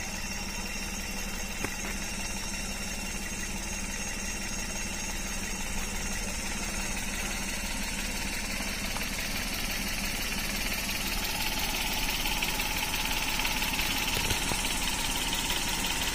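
Vehicle engine idling steadily, getting a little louder in the second half.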